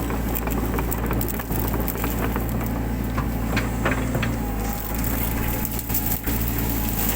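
Mini excavator's engine running steadily under load while brush and woody undergrowth crackle and snap in quick, irregular cracks as it is cleared.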